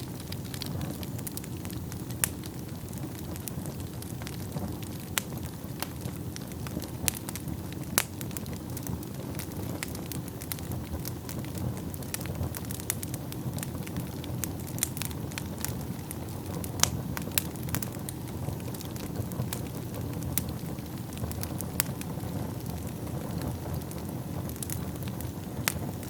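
Wood fire burning in a fireplace: a steady low rumble of flames with frequent crackles and occasional sharp pops from the burning logs.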